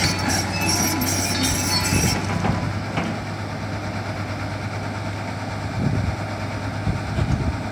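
Caterpillar 315 L excavator's diesel engine running steadily, with high-pitched squeaking and clanking from the machine for about the first two seconds, after which the engine carries on alone.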